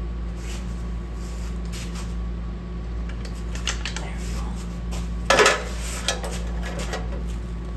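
Metal tools and parts clinking and clattering as they are handled, with one louder clatter about five and a half seconds in, over a steady low hum.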